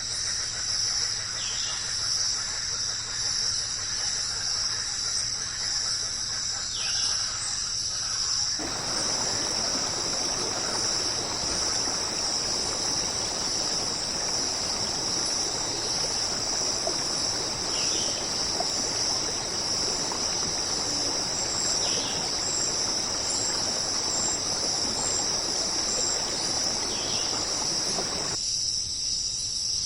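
Steady high insect chorus, cricket-like, with a few short falling calls every few seconds. Running water joins in about eight seconds in and cuts out near the end.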